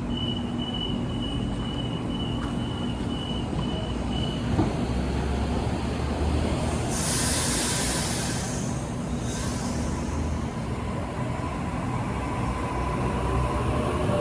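Electric passenger train at a station platform with a steady rumble throughout. A steady high tone runs for the first four seconds, a loud burst of air hiss comes about seven seconds in with a shorter one soon after, and a rising whine builds near the end.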